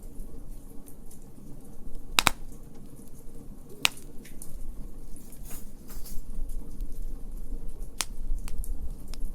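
Wood fire in a fire pit crackling, with a few sharp pops over a low steady rumble; the loudest pop comes about two seconds in.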